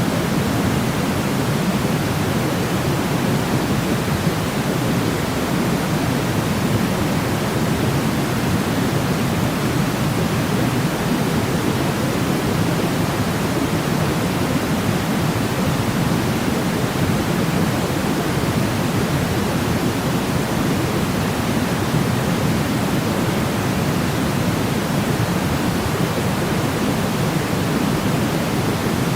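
Steady white-noise sleep sound, weighted toward a deep, even rush rather than a bright hiss, with no change in level or character.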